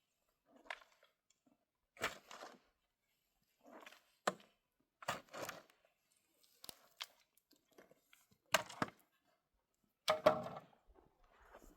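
A series of short, irregular crunches, scrapes and knocks, about ten in all with gaps between them; the sharpest come a little past halfway and near the end.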